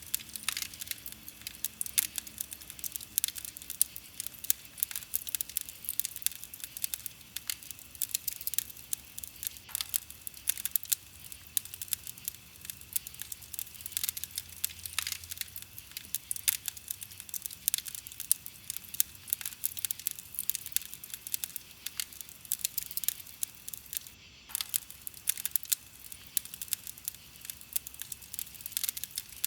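Wood campfire crackling steadily, with a dense run of small pops and snaps.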